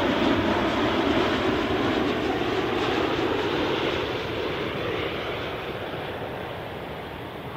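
Jet airliner engines, loud at first and fading steadily as the aircraft moves away.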